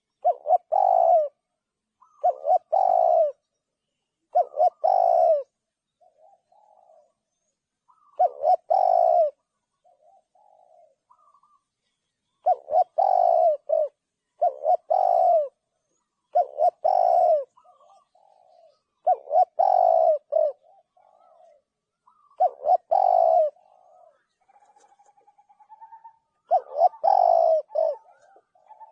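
Spotted dove cooing: a loud coo phrase about every two seconds, with softer short notes in the gaps and a brief rising trill near the end.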